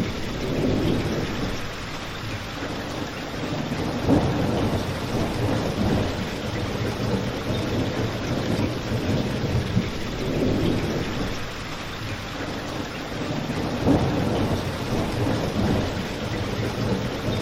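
Steady rain with a low rumble that swells and fades every few seconds. Two sharp crackles from a fireplace stand out, one about four seconds in and another about fourteen seconds in.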